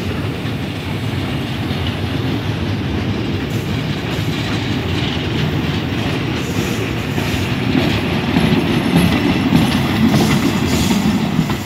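Freight train of loaded stone hopper wagons and a brake van rolling past, wheels rumbling over the rails, getting louder near the end as the brake van goes by.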